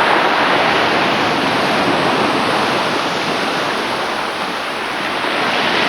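Sea surf washing in a steady rush of water, swelling and easing slightly.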